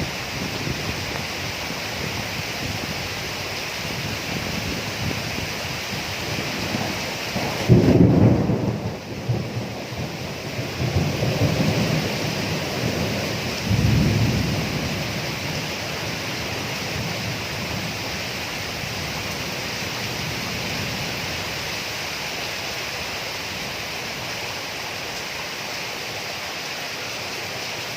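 Thunderstorm: steady rain hiss with rolling thunder, a loud rumble about eight seconds in followed by two weaker rumbles a few seconds later, then rain alone.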